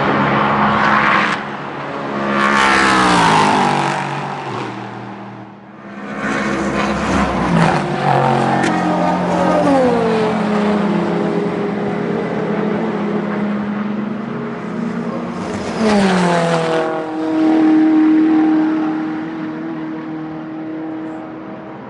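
Race cars passing at speed, one after another, their engine notes falling in pitch as each goes by; three loud passes, the last car's note steadying as it pulls away.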